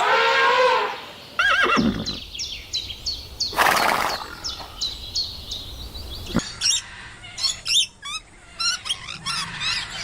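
A horse whinnying, a falling, wavering call about one and a half seconds in, followed by a short noisy burst around four seconds, with small birds chirping repeatedly behind it. After about six seconds only scattered bird chirps continue.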